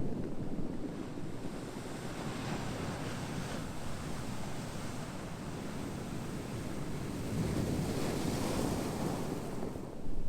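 Ocean waves washing on a shore: a steady rush of surf, with one wave surging louder and hissing brighter about three quarters of the way through.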